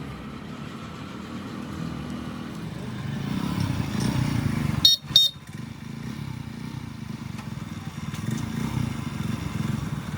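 An engine running with an uneven low rumble, and two short, sharp loud sounds close together about five seconds in.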